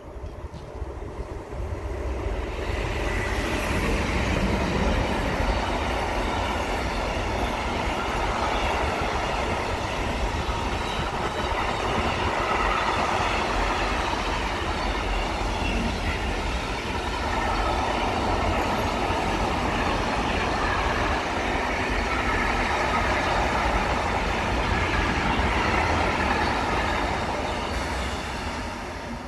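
A train passing close by on the line: the sound of wheels on rails builds within about two seconds, holds steady for most of half a minute, then drops away near the end.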